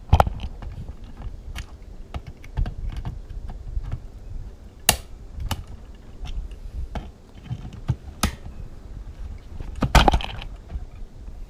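Irregular clicks and knocks of small hard objects being handled, with a few louder knocks scattered through.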